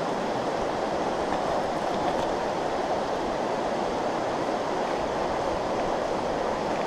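Steady rush of flowing stream water, an even, unchanging noise.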